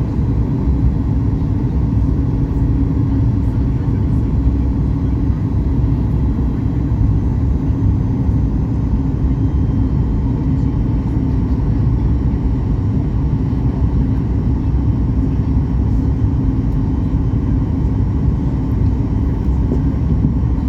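Steady low cabin rumble inside a Boeing 737 MAX 8-200 airliner: engine and airflow noise heard from a passenger seat, unchanging throughout.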